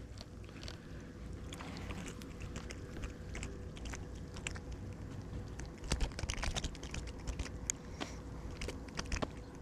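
Scattered light clicks and rustles of handling a just-caught small bluegill and its tackle, thickening about six seconds in and again near the end, over a faint steady hum.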